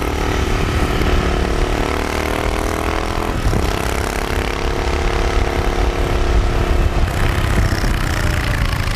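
Motorcycle engine running under way through a short aftermarket Powerage exhaust. The note holds steady, then breaks and shifts pitch about a third of the way in and again about three-quarters in, over a heavy low rumble.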